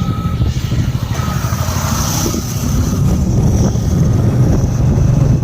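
Motorcycle engine running steadily while riding, with rough rumbling road and wind noise on the microphone.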